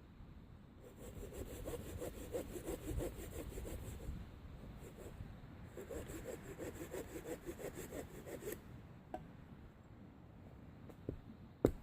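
Hand saw cutting through a piece of wood in quick back-and-forth strokes, about four a second, in two bouts with a short pause about four seconds in. A single sharp knock near the end.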